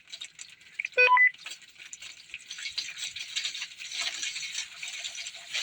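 Water hissing and trickling in a toilet after a sluggish flush: the bowl has filled to the rim and drains only slowly, the usual fault of this toilet. A short, loud pitched squeak cuts in about a second in.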